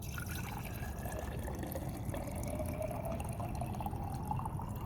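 Water draining from a water heater tank's drain valve during a flush, the water still dirty with rust and sediment. It runs steadily, with a faint tone that rises slowly in pitch.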